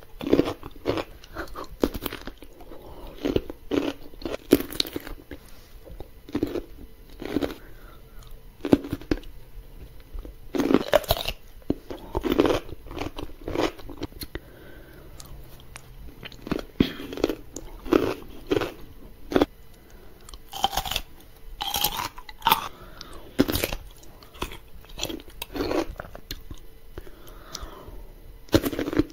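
Close-miked biting and crunchy chewing of pickled cucumbers: repeated irregular crunches as bites are taken and chewed.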